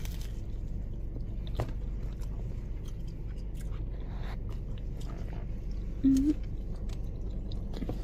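Close-up chewing of a mouthful of toasted pizza sub, with small wet mouth clicks over a steady low hum. A short hummed "mm" comes about six seconds in.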